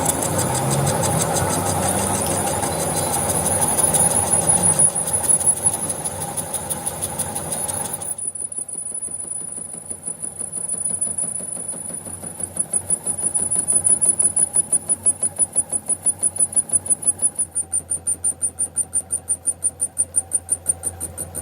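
Machine-shop machinery running with a steady high whine. Broad cutting-like noise stops about a third of the way in, and later the sound pulses at about four beats a second, like a rotating workpiece such as a crankshaft turning.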